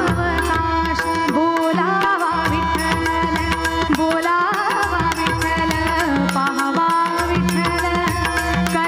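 Live Marathi abhang music: a gliding, ornamented melody line over a steady drone, with tabla keeping a dense, regular rhythm.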